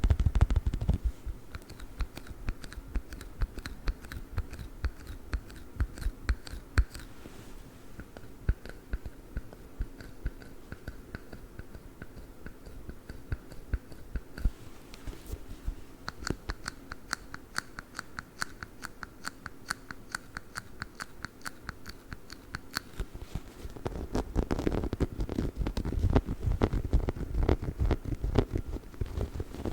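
Fingers scratching and tapping rapidly on a dog chicken toy close to the microphone, a dense run of fine clicks that grows louder and fuller near the end.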